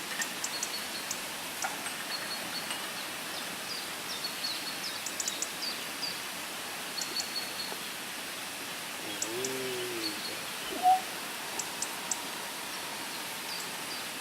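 Outdoor ambience with small birds chirping in short, high, repeated notes over a steady background hiss. A brief lower arched call comes about nine seconds in, and a short, sharp, louder chirp about eleven seconds in.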